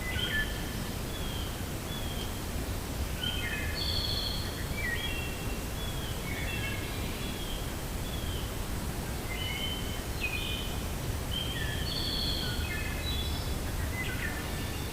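Wind blowing steadily as a low rushing noise, with birds chirping over it in many short, repeated whistled notes throughout.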